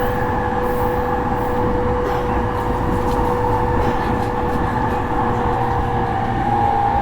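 JR East E231 series electric train running, heard inside the motor car: a steady rumble with a steady traction motor and inverter whine, whose pitch shifts near the end.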